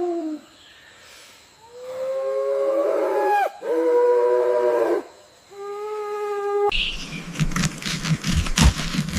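Drawn-out animal calls, about four in a row, each a steady clear tone lasting a second or two, several dropping in pitch at the end. About two-thirds of the way through they give way abruptly to a crackling, rustling clatter.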